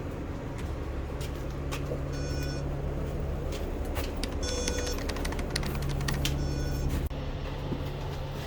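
Urban background noise: a steady low rumble with scattered clicks and three short high-pitched ringing sounds.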